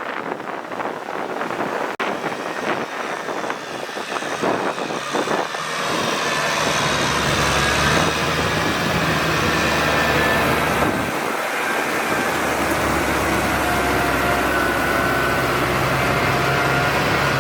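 Kubota tractor's diesel engine running. The first few seconds are rough and noisy, then it settles into a steady hum about six seconds in.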